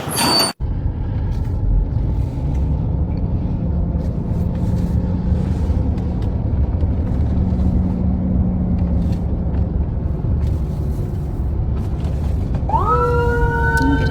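A loud, steady low rumble. Near the end, an emergency-vehicle siren starts up with a rising wail and then holds.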